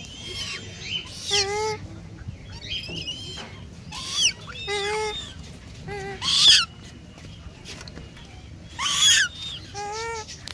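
Caged birds of several kinds calling: repeated shrill calls that drop steeply in pitch, the loudest about six and nine seconds in, mixed with short nasal calls.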